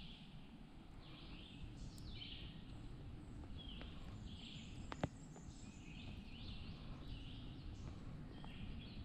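Small birds chirping in short repeated calls over a low steady rumble of outdoor background noise, with a single sharp click about five seconds in.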